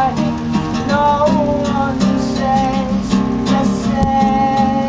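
Music: a strummed acoustic guitar with a melody of long held notes over it.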